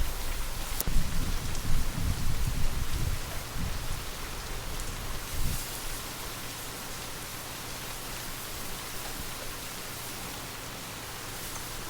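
Steady rain hissing, with light wind buffeting low and gusty through the first half, dying away about five seconds in.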